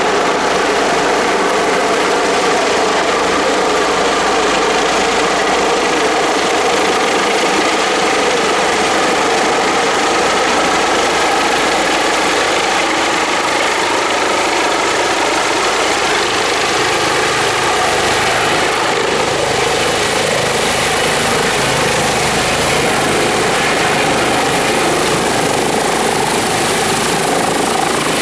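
Airbus Helicopters H145 running steadily at close range: dense rotor and engine noise with a thin, steady high-pitched turbine whine on top.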